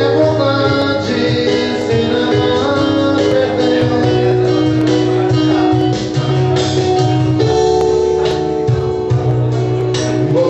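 A band playing a song with guitar, a steady bass line and light percussion.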